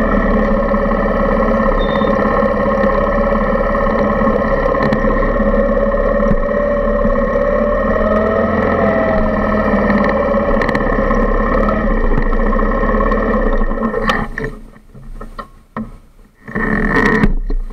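Suzuki Intruder 125's single-cylinder four-stroke engine running at low speed, heard through the handlebar mount, as the motorcycle rolls slowly. The engine stops about fourteen seconds in, followed by a few knocks and a brief louder noise near the end.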